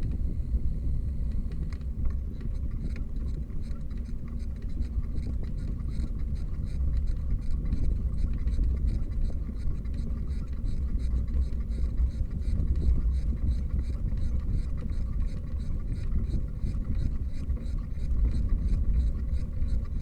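Steady low rumble of wind and road noise on a bicycle-mounted camera's microphone while riding, with a light, regular ticking several times a second.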